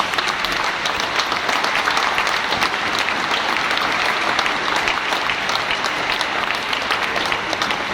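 An audience applauding steadily after the choir's last chord, a dense crowd of clapping hands in a reverberant church.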